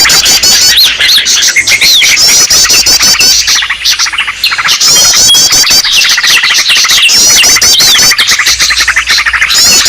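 Bird-lure recording of small birds: dense, overlapping high chirps and pitch-gliding calls, with a rapid trill phrase that comes back every couple of seconds.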